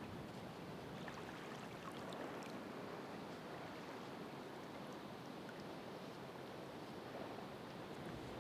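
Ocean waves washing on the shore: a steady, soft wash of surf, with a few faint small ticks in the first few seconds.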